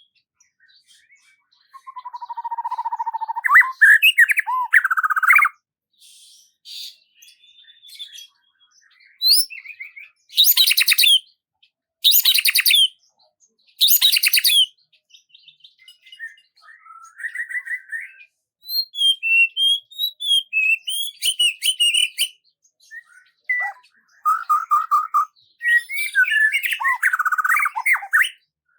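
Birds calling and singing: a varied run of chirps, whistled notes and trills in short phrases with brief silences between, including three loud, noisy calls about two seconds apart near the middle.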